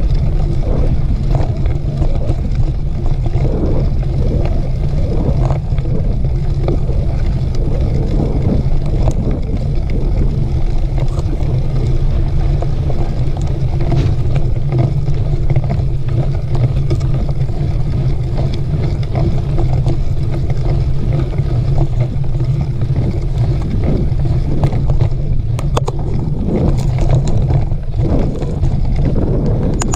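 Steady wind rumble on the microphone of a camera carried on a moving mountain bike, with scattered small rattles and knocks from the bike on the trail.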